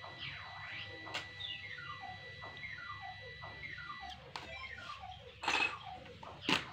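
A bird chirping: a steady string of short falling chirps, a few a second. Two brief, louder noises come near the end.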